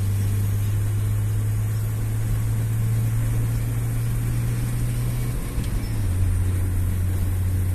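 Engine of an older vehicle running steadily at highway speed, heard from inside the cab with road and wind noise: a strong low hum whose pitch drops slightly about five and a half seconds in.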